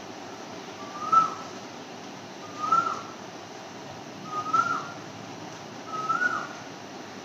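A bird calling: a short whistled note that rises and then drops, repeated evenly four times, about every second and a half to two seconds.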